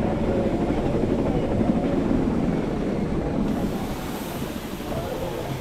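Electric cogwheel mountain railcar rumbling as it moves slowly through a station. The steady low rumble eases off a little past halfway through.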